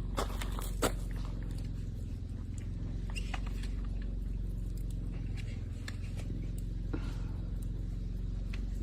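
Freshly lit wood campfire crackling with scattered sharp pops, the two loudest within the first second, over a steady low hum.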